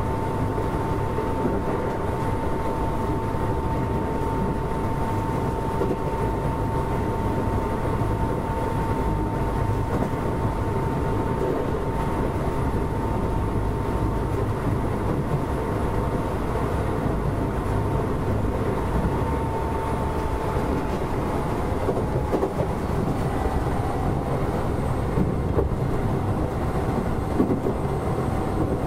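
Keisei 3400 series electric train running at speed, heard from on board: a steady rumble of wheels on rail under a constant whine that drops slightly in pitch and fades about two-thirds of the way through.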